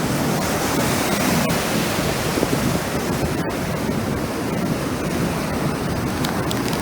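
Ocean surf breaking and washing up the beach as the tide comes in: a steady rush of waves.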